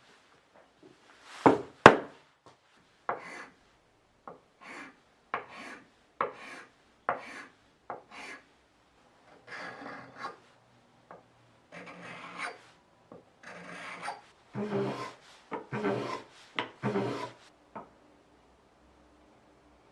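A hand tool scraping on wood in short separate strokes, roughly one a second and coming closer together near the end. Two sharp, louder strokes come about two seconds in.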